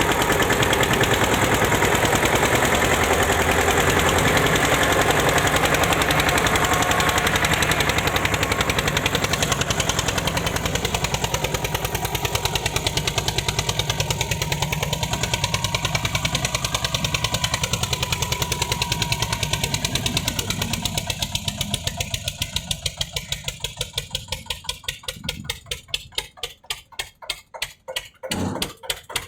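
Eicher 241 tractor's single-cylinder air-cooled diesel engine running with a steady low beat. From about two-thirds of the way in, it settles into separate, evenly spaced thumps with quieter gaps between them.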